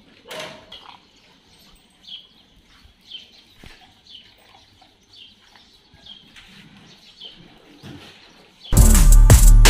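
Faint bird chirping, a short high note repeated about twice a second. Near the end, loud music with drums cuts in suddenly.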